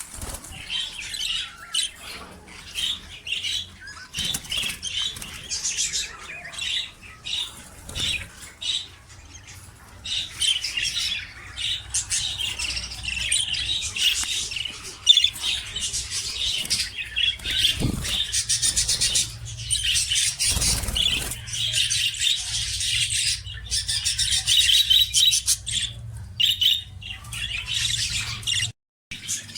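A group of budgerigars chirping and chattering nonstop, with a brief break near the end.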